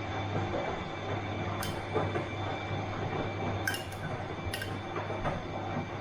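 Bosch washing machine running with a steady hum, and three sharp clinks from the drum: one just under two seconds in, then two close together around four seconds in.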